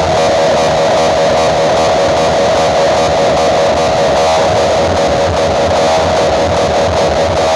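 Loud music with distorted electric guitar over a steady bass beat, blaring from big outdoor sound-system speakers. It comes through boomy and saturated in the recording.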